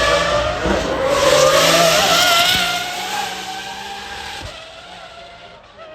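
A car accelerating hard past the crowd on the hill, loudest about two seconds in and then fading away as it goes up the course.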